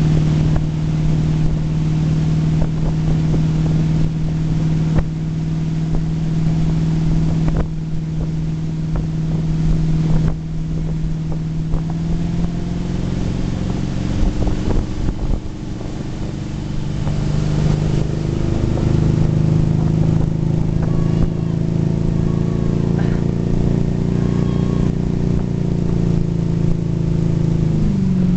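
Malibu Sunsetter LXi ski boat's 320 hp V8 inboard engine running steadily at towing speed under the load of a water skier, over wind and water noise. Its pitch shifts a little partway through and falls near the end as the throttle eases.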